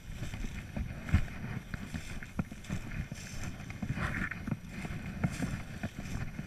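Irregular footsteps and cracks of twigs on the forest floor during an outdoor walk, over low wind rumble on the microphone, with a brief rustle about four seconds in.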